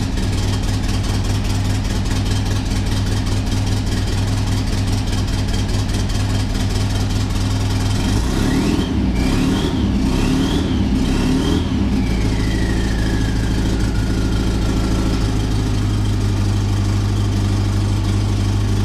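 1956 Volkswagen Beetle's air-cooled flat-four engine running after a cold start and only just holding an idle. About halfway through it is revved up and down a few times, then a whine falls in pitch as it settles back to idle.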